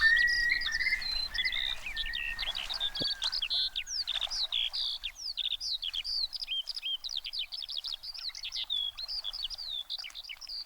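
Skylark song: a continuous, rapid stream of high, varied warbling and trilling notes. In the first couple of seconds a lower, steadier trill from another bird runs beneath it.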